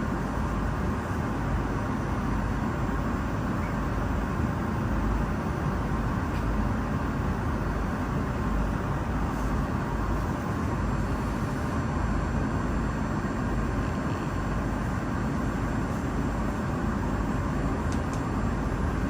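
Moscow Metro train in motion: a steady running rumble and hiss with no breaks.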